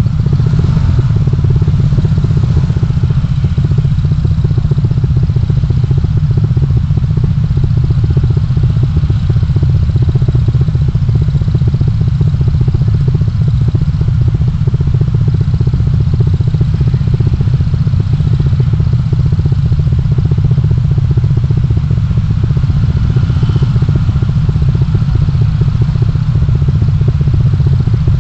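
Steady low rumble of a car driving, engine and road noise as picked up by a dashcam inside the car, with no distinct events.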